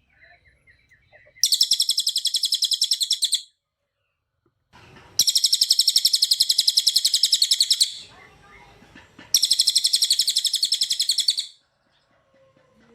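A cililin singing three long, fast trills: each a rapid run of repeated high notes lasting two to three seconds, with short pauses between them.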